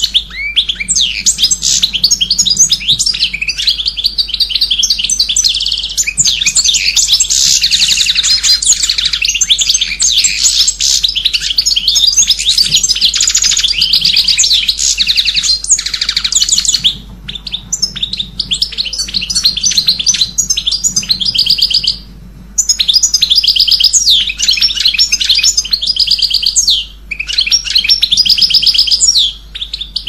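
Small cage birds chirping and trilling continuously in a loud, dense, high-pitched chatter, with a few brief pauses in the second half.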